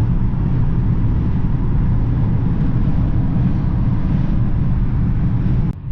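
Steady road and engine noise inside a car's cabin at motorway speed: a dense low rumble of tyres on the road surface. It drops out briefly near the end.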